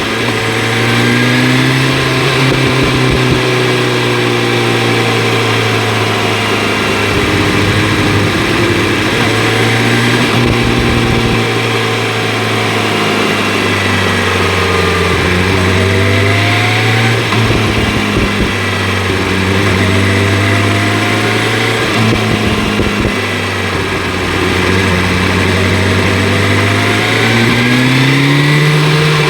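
BMW S1000 RR inline-four engine running through an Akrapovic exhaust while being ridden. The note holds fairly steady with small rises and falls and climbs near the end, over a steady rush of wind noise.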